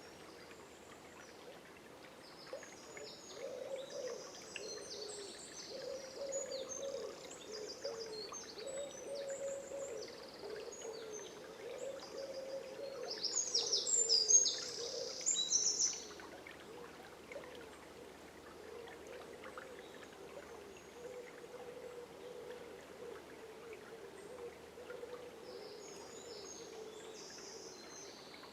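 Small birds chirping and trilling over the steady sound of river water, with a loud, dense burst of song about halfway through that stops abruptly; a few more chirps come near the end.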